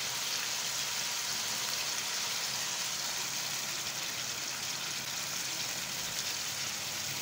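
Chicken pieces sizzling steadily in hot ghee in a karahi, an even frying hiss.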